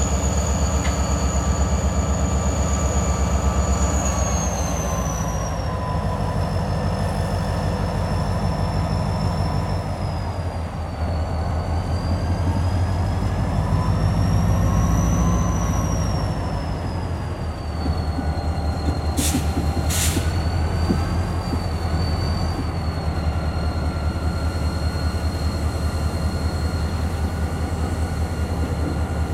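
EMD GP40M-3 diesel locomotive running as it hauls a freight train slowly past, with a steady low throb from the engine. High-pitched wheel squeal wavers slowly up and down over it, and there are two brief sharp high-pitched bursts about two-thirds of the way through.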